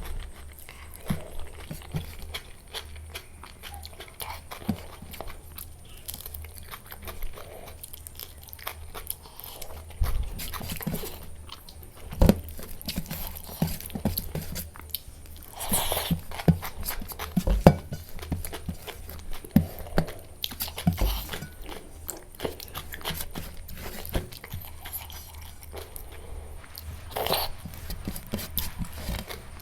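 Close-miked eating sounds: irregular chewing and biting with wet mouth clicks and a few sharper crunches, over a steady low hum.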